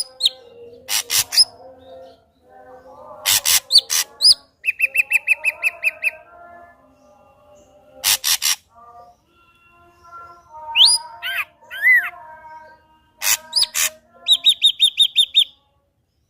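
Ashy drongo singing: loud harsh, rasping notes alternate with fast runs of clear repeated whistled notes, about seven a second, and a few upward-slurred whistles.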